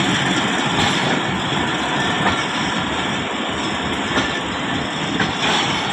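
A train running on the rails close by: a steady rumble and rattle of wheels and wagons, with a few separate knocks through it.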